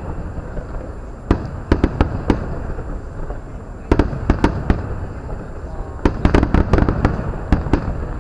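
Aerial firework shells bursting: sharp cracks and pops in clusters, a few about a second in, more about four seconds in, and a dense run from about six seconds, over a steady low rumble.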